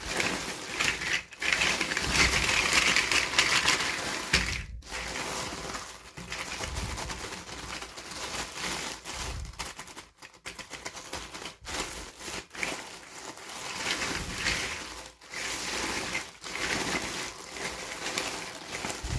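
Toy packaging being handled and opened: plastic crinkling and rustling with many small clicks and taps, stopping briefly several times.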